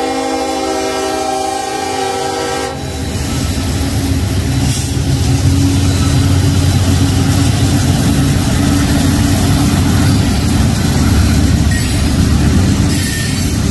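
Freight locomotive air horn sounding a steady multi-note chord, cutting off about three seconds in. Then the steady noise of a freight train passing: diesel locomotive engines and rolling cars.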